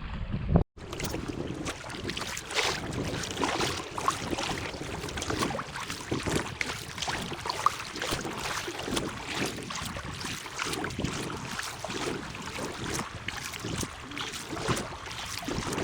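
Water splashing and trickling close around a kayak: a busy, irregular crackle of small splashes with no steady tone. It starts abruptly less than a second in, after a brief cut-out.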